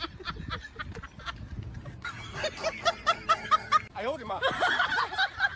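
A person laughing and snickering in quick runs of short bursts.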